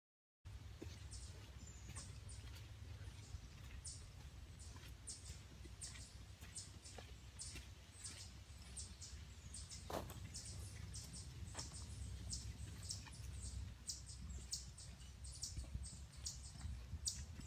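Footsteps crunching on a trail at walking pace, about two steps a second, over a low steady rumble.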